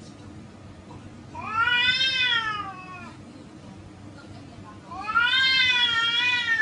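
Domestic cat meowing twice, two long drawn-out meows that rise and then fall in pitch, the second running to the end.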